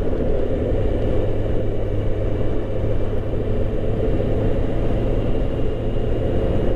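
Motorcycle running steadily at road speed, its engine hum mixed with a constant rush of wind and road noise over the microphone.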